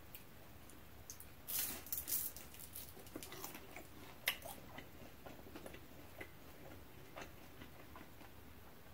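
Close-up crunching and chewing of a deep-fried spring roll, its crisp wrapper crackling in short irregular bursts, the densest about one and a half to two and a half seconds in.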